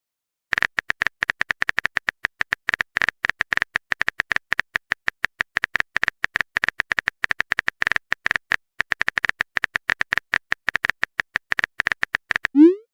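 Typing sound effect: a fast, uneven run of short clicks, several a second, each with a bright tick near 2 kHz, starting about half a second in with a brief pause about two-thirds of the way through.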